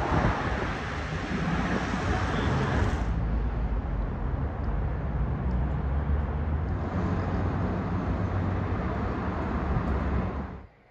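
A car's engine and exhaust running loud with road noise. It starts and stops abruptly, as an edited clip.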